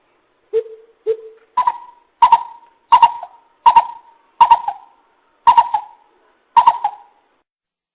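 Coucal calling a series of deep, hollow hoots. The first two are lower, then the call steps up in pitch for seven more, about one hoot every 0.7 s, spacing out a little near the end.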